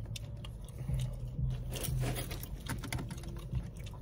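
Popcorn being chewed and crunched close to the microphone: scattered small crunches and crackles over a low steady hum.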